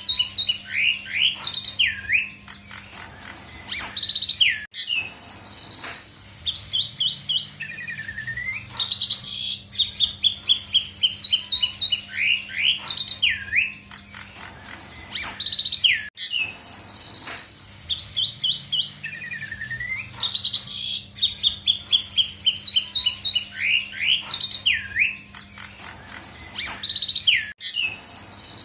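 Asian pied starling (jalak suren) singing actively: a loud, varied song of fast runs of descending whistled notes and sweeping whistles. The same song sequence repeats about every 11 to 12 seconds, as in a looped recording, over a steady low hum.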